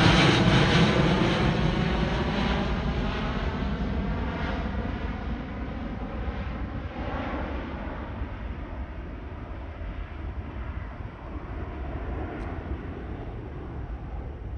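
Airbus A350's twin Rolls-Royce Trent XWB engines at takeoff power as the jet climbs away after passing overhead: a loud, dense rumble that fades steadily, its high end dying away first.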